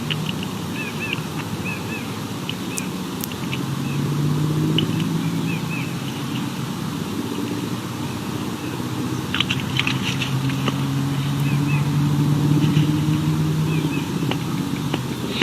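A motor vehicle engine running, swelling twice as vehicles pass, with small birds chirping in short, high notes over it.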